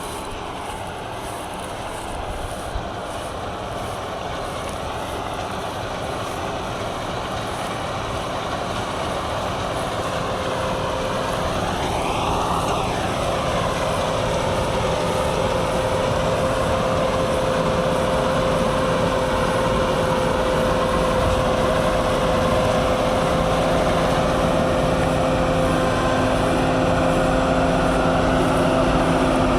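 Don-1500B combine harvester running under load while picking up and threshing a windrow: a steady machinery drone that grows gradually louder, with a steady hum joining about halfway through.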